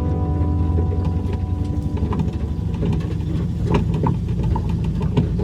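A vehicle engine running steadily, with scattered light clicks and knocks.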